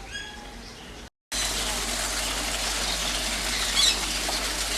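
Small birds chirping. About a second in, the sound cuts out briefly and returns louder, as a dense hiss with bird calls through it and one loud squawk near the end.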